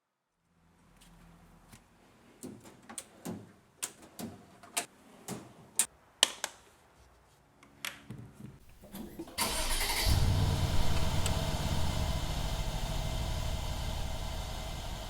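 A series of sharp clicks, then the Mercedes S550's M278 twin-turbo V8 cranks and starts about nine and a half seconds in. It runs steadily and grows gradually quieter as it settles toward idle.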